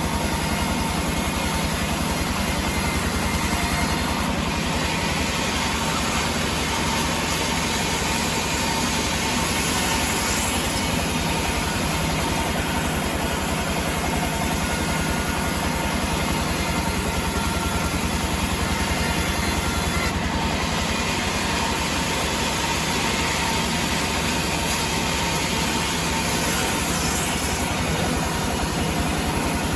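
Sawmill machinery running steadily, a constant engine-like hum with a faint steady whine and no clear change.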